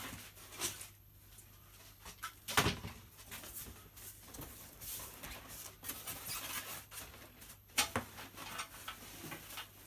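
Cardboard box and packaging being handled while a bandsaw is unpacked: rustling and scraping, with a few sharp knocks, the loudest about two and a half seconds in.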